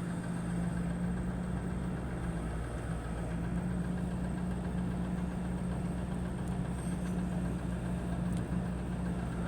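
A steady, unbroken low engine-like hum with a constant pitch, as from an idling motor.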